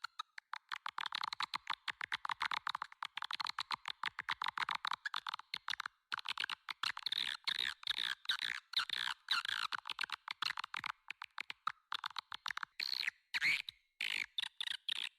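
Swiftlet call (lure) recording of the kind played to draw swiftlets into a nesting house: dense, very rapid twittering chirps and clicks, many a second, with a couple of brief pauses.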